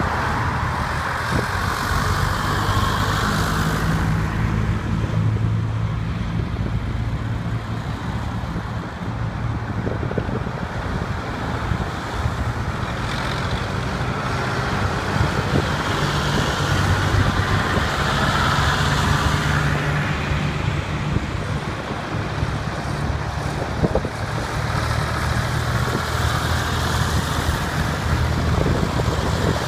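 Diesel tractor engines running as tractors drive by one after another. The low engine note swells and fades several times as each one passes.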